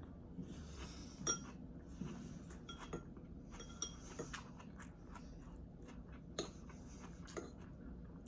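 Eating sounds: a utensil clinks against a dish about six times, with brief ringing, between soft chewing of rice noodles.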